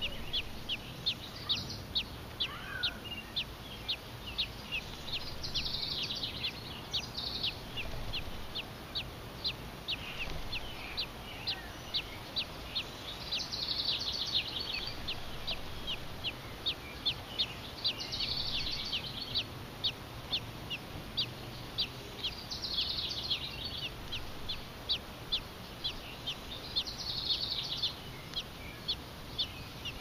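A bird chirping steadily, short high chirps about two a second, with brief bursts of fuller chirping every few seconds.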